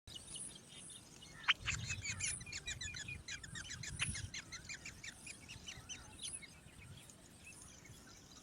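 Several small birds chirping and twittering in quick, overlapping calls, busiest in the first half and thinning out toward the end, with two sharp clicks among them.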